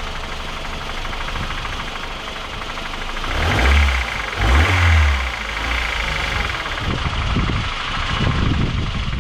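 Mercedes 190E engine idling with its accessory belts removed, still making a rattling noise. The owner takes this for an internal engine problem. Two loud low rumbles come around the middle.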